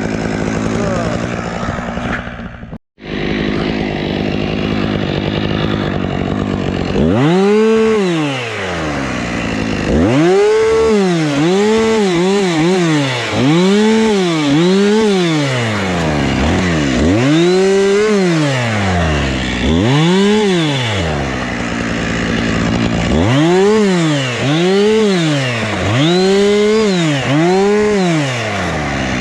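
Husqvarna two-stroke chainsaw running steadily at first, then revved up and down over and over, each rev rising and falling in pitch about once a second. The sound breaks off for a moment about three seconds in.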